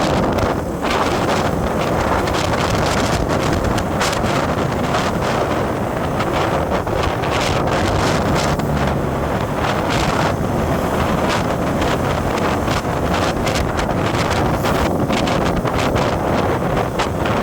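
Heavy wind buffeting the microphone, with crackling gusts, over a steady rush of road and engine noise from a moving vehicle.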